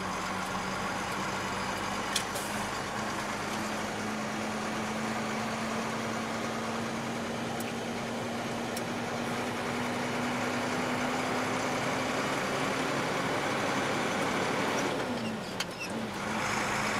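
Car engine and road noise from inside the cabin while driving: a steady drone that slowly rises in pitch, dips briefly about fifteen seconds in, then picks up again.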